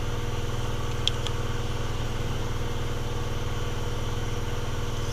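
A steady mechanical hum, with two faint light clicks about a second in.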